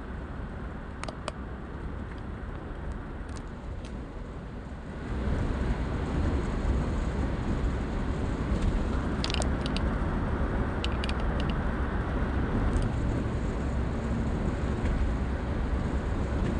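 Steady road and engine noise from a vehicle driving along a highway. The rumble grows clearly louder and deeper about five seconds in.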